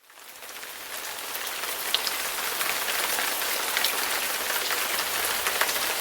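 Heavy rain falling, a dense steady hiss with many sharp ticks of drops striking close to the microphone. It swells up over about the first second.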